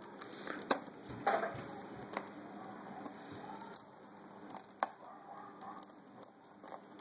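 A grey parrot's beak pecking and biting at a plastic-wrapped chocolate bunny: scattered sharp taps, clicks and crinkles.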